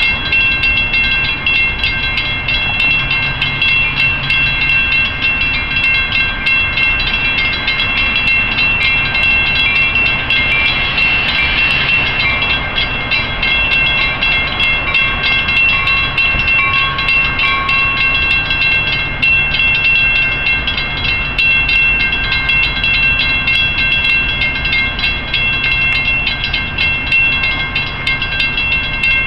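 Metra bi-level commuter train rolling into a grade crossing and coming to a stop, a low rumble under the steady ringing of the crossing warning bell. The train noise is loudest about ten to thirteen seconds in.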